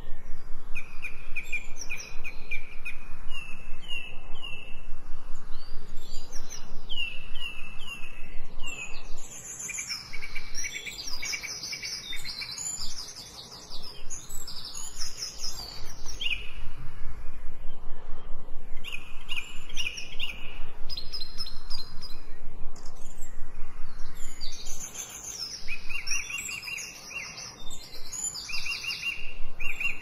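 Several songbirds singing, with overlapping chirps and quick trilled phrases of repeated notes. There are short lulls in the song partway through and again near the end.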